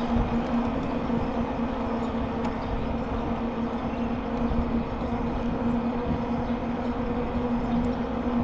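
Bicycle riding along: a steady hum under continuous rolling tyre noise, with wind rumbling on the microphone.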